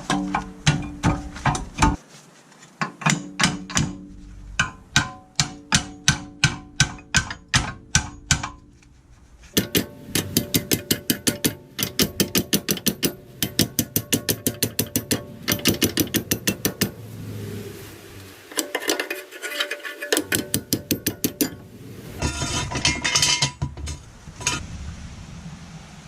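Rapid, evenly spaced hammer blows on the rear brake caliper of a VW Passat B7, about three to four a second, ringing like struck metal, to knock the caliper loose from the disc. The runs of blows break off abruptly a few times.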